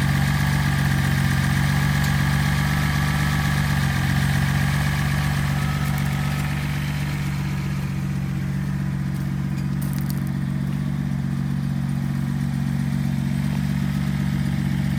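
Datsun 240Z's 2.4-litre inline-six engine idling steadily, easing slightly in level about six seconds in.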